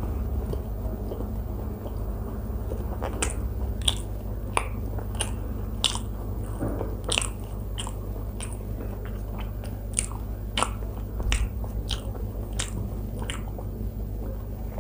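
A person chewing a mouthful of paratha, close-miked, with many sharp wet mouth smacks and clicks that come thickest from about three seconds in until near the end, over a steady low hum.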